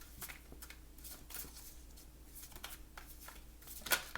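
A deck of tarot and oracle cards being shuffled and handled by hand: irregular soft card slaps and flicks, with a louder snap near the end.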